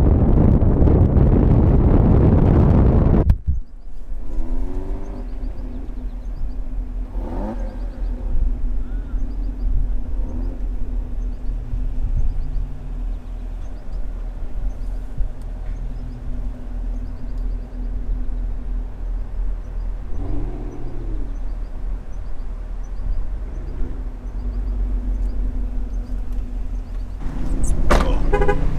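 Cars on the move: loud wind and road noise for about three seconds, then a sudden change to a quieter steady engine hum. Now and then an engine note rises and falls, and the sound grows louder again near the end.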